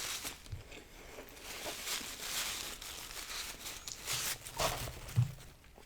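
Close-miked eating sounds: chewing a Big Mac and fries, with soft crackles and rustling of food packaging.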